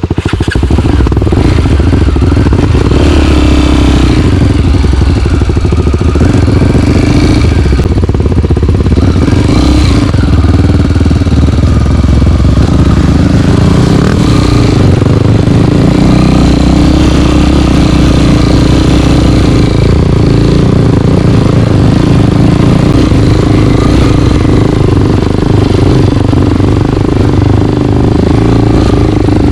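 Single-cylinder four-stroke trail bike engine running loud and steady while riding, with mild rises and falls of the throttle.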